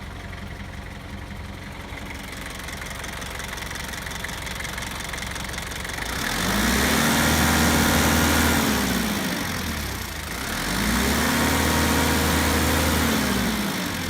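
Sumitomo 3-ton forklift engine idling steadily, then revved twice, each time rising in pitch, holding for a couple of seconds and dropping back to idle.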